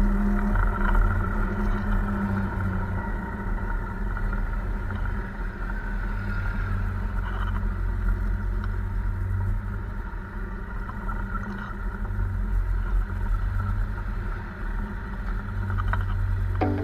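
Motorbike on the road: a steady engine and road rumble. A gong-like tone rings out and fades over the first few seconds.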